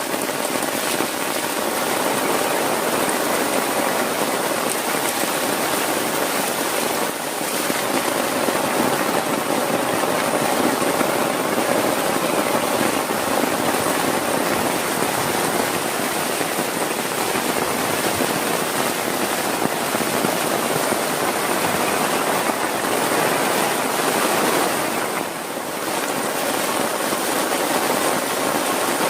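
Heavy rain falling steadily, a dense unbroken hiss of downpour.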